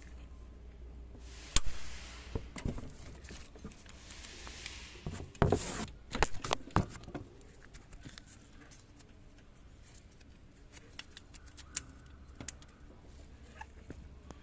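Scattered sharp metallic clicks and knocks of hand tools and parts being handled during engine work, busiest in the first half, with two short bursts of hiss.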